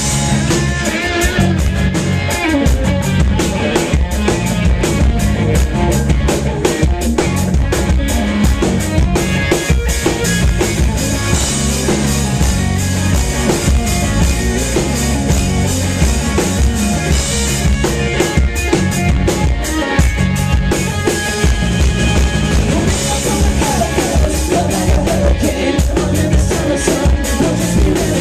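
Live pop-rock band playing an instrumental section with no vocals, the drum kit keeping a steady driving beat under the rest of the band.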